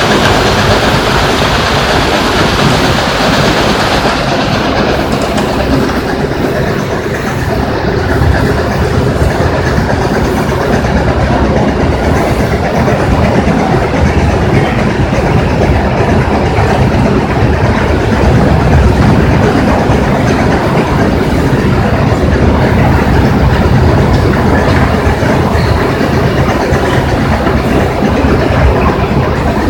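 Stone crusher running, with a loud, steady rumble and a dense, continuous clatter.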